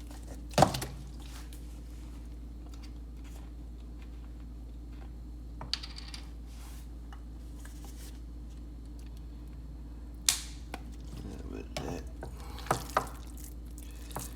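Kitchen clatter while preparing burger mix: a few sharp knocks and clinks of containers and utensils against a bowl or counter, the loudest about half a second in and a quick cluster near the end, over a steady low hum.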